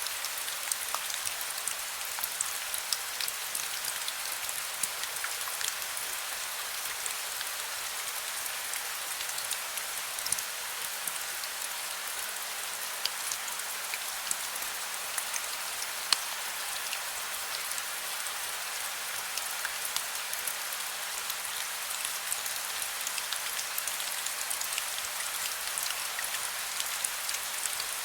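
Heavy rain falling steadily, a dense patter of individual drops hitting a surface, with a few sharper drop strikes standing out, one a little past the middle.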